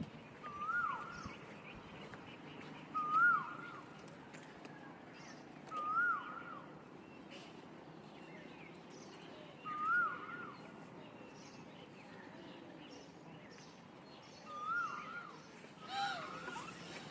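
Asian koel calling: six loud, clear, repeated whistled calls, each rising then dropping away, spaced a few seconds apart. Near the end a second, lower call overlaps the last one, over faint chirping of other small birds.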